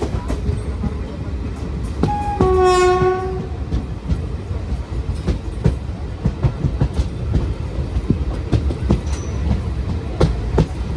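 Indian Railways train running with a steady rumble and the wheels clacking over rail joints. A little after two seconds in, a locomotive horn sounds for about a second.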